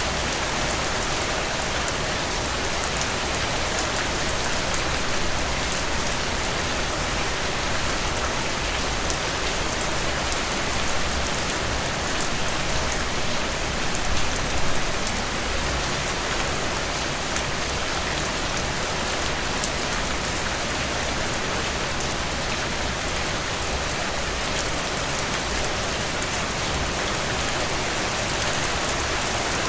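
Steady rainfall landing on surfaces, a dense even hiss of many drops with fine pattering ticks, swelling slightly a couple of times about halfway through.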